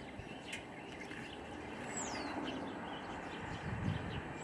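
Steady background noise with a bird giving a single high, quickly falling whistled call about two seconds in.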